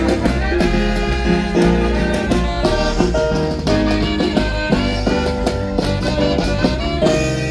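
Lively Latin festive band music: held melodic notes over a steady beat.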